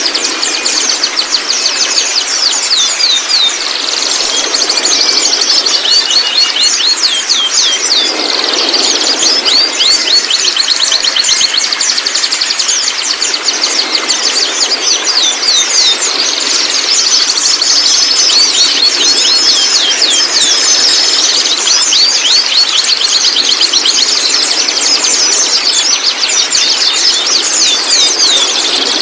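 White-rumped shama (murai batu) song and chatter: long runs of high, fast-repeated notes, with a few short clear whistles partway through, over a steady background hiss.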